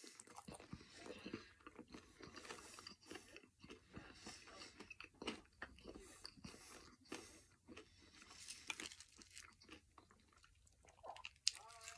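A person chewing a mouthful of crunchy cheese-dusted hard taco shell: quiet, irregular crunches and mouth sounds.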